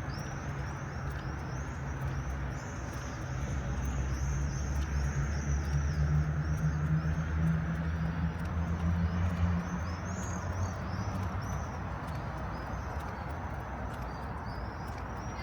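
City street ambience: a low traffic rumble that swells as a vehicle passes, from about three to ten seconds in, under a continuous run of high, quick bird chirps.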